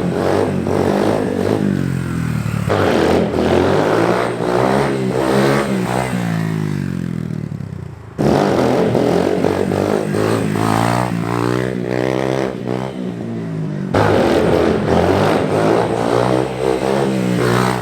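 Small dirt bike engine revving up and falling back over and over in second gear as the rider pulls short wheelies. The sound changes abruptly twice, about eight and fourteen seconds in, where separate runs are cut together.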